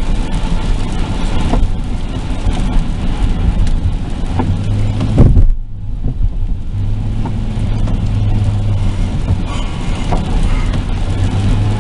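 Car driving, heard from inside the cabin: a steady rumble of engine and tyres with road hiss. A low hum comes in for a few seconds from the middle, and there is one louder moment about five seconds in, after which the higher part of the noise drops for about a second.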